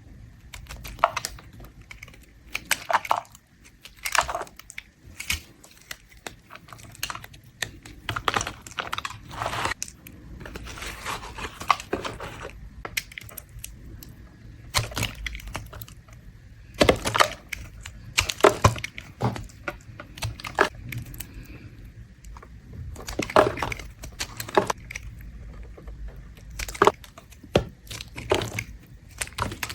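A blade scraping shavings off a bar of mint soap in crisp, crackling strokes, coming irregularly and sometimes in quick clusters.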